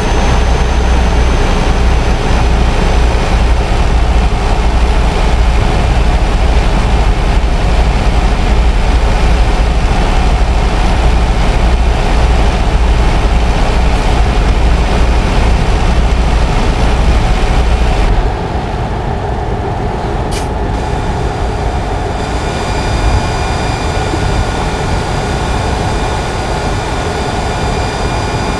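Scania R560 truck's V8 diesel engine running steadily with a strong low drone. About two-thirds of the way through, the level drops and the low drone eases, and a single sharp click follows.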